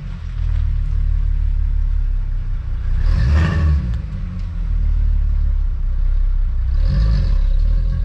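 A VW Jetta wagon's 12-valve VR6 engine running at low speed as the car reverses, with a steady low hum. The engine briefly surges louder twice, about three seconds in and again near the end.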